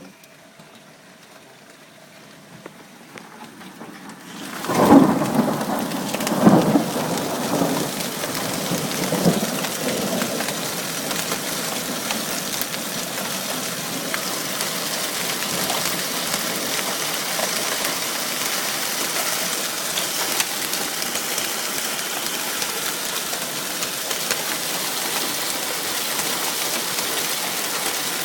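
Hail and rain pelting down in a thunderstorm, a steady hiss of impacts. The sound is muted at first, swells sharply about four and a half seconds in, and a few low rumbles come in the following seconds.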